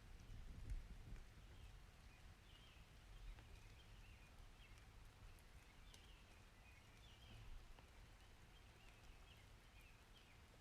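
Faint rainstorm ambience: a low rumble, loudest about the first second, under a light hiss, with quiet high chirping all through.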